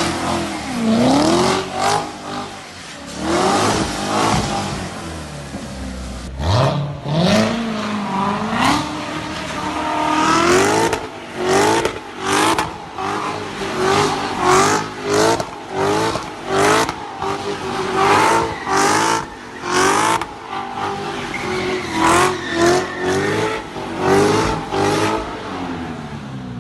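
High-performance car engines under hard acceleration. The engine note climbs and drops back twice through gear changes, then swells and falls away over and over, about once a second, in repeated hard revs.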